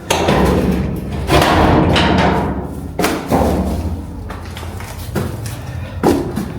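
A few dull thumps over a steady low rumbling noise.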